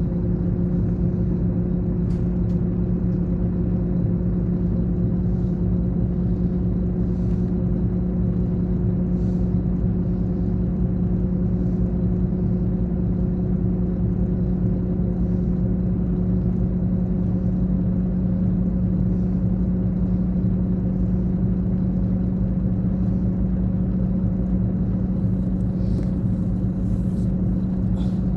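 Scania K420 bus engine running steadily, a constant low drone with no change in pitch. Faint high ticks come every couple of seconds, with a faint hiss near the end.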